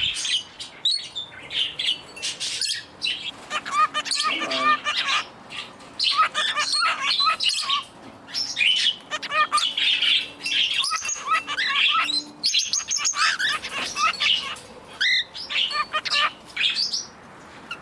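Mixed flock of small pet parakeets (budgies, Bourke's parakeets, a lovebird, a turquoisine) chirping and chattering constantly, with many short high calls overlapping.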